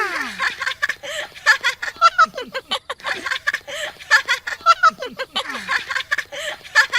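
Puppet characters giggling and laughing in short, choppy bursts while running about in a game of tag.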